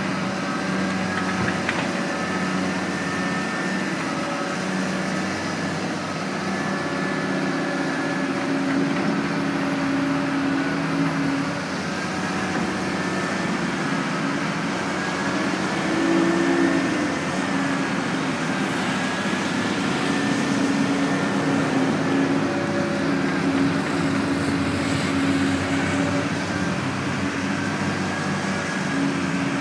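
Diesel engine of a backhoe loader running steadily under work, with a faint wavering high whine over it; the engine pitch and level rise briefly about sixteen seconds in.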